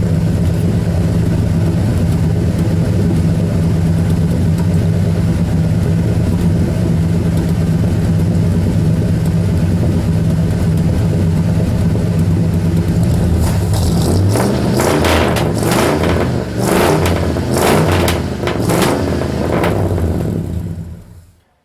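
1972 Ford Custom's engine running steadily at idle, heard from the rear of the car; the owner says the engine needs a rebuild. About fourteen seconds in, the engine note shifts and a run of irregular loud clattering noises follows for several seconds. Then the sound cuts off suddenly.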